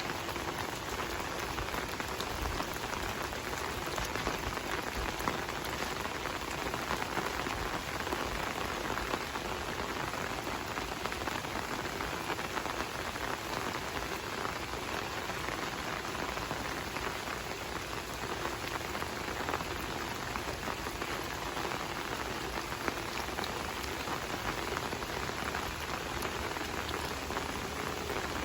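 Steady rain falling, a constant even hiss with many small drop ticks.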